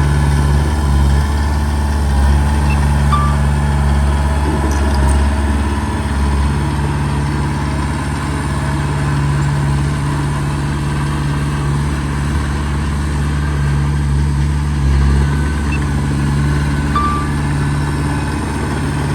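Heavy diesel engine of earthmoving machinery running steadily with a deep hum, rising and falling slightly. Two brief high tones sound over it, a few seconds in and near the end.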